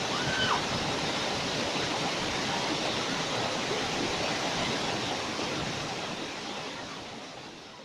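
Waterfall: a steady rush of falling water, fading out over the last couple of seconds.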